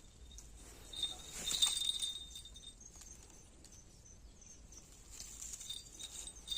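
Small birds chirping and calling, with thin high-pitched notes; the calls are loudest between about one and two and a half seconds in.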